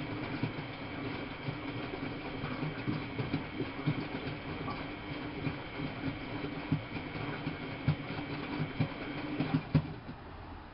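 Miele Novotronic W830 washing machine running, a steady motor hum with irregular knocks and clicks, dropping off shortly before the end.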